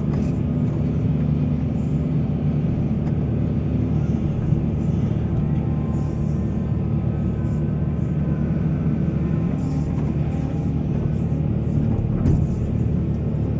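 Large diesel engine of heavy mining machinery running steadily under load, with a faint whine above the engine note. Two short knocks stand out, one about four and a half seconds in and one near the end.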